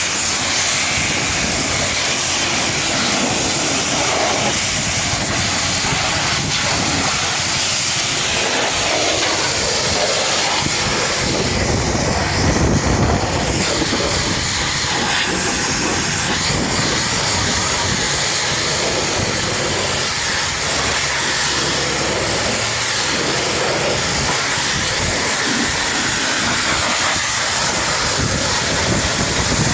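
High-pressure washer spraying water onto a truck, a steady loud hiss that swells briefly about twelve seconds in.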